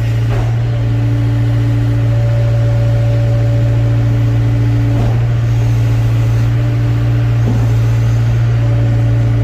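Excavator's diesel engine running steadily: a loud, even low drone with a steadier higher tone over it that fades and returns.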